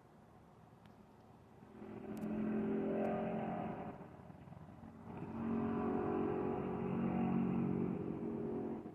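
A motor vehicle's engine running loudly in two swells: the first about two seconds long, the second nearly four seconds and cutting off near the end.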